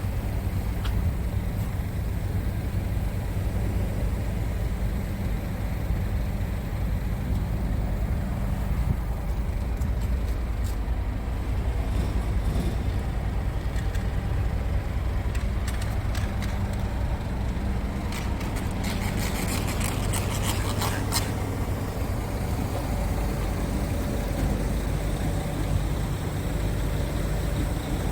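Scania R tractor unit's diesel engine idling steadily, with a run of light clicks partway through.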